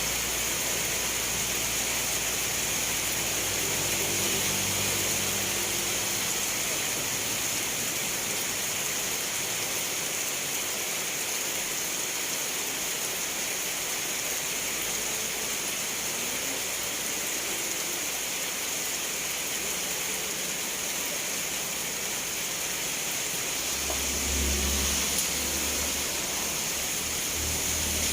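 Steady rain falling, a continuous even hiss. A low rumble rises briefly about four seconds in and again near the end.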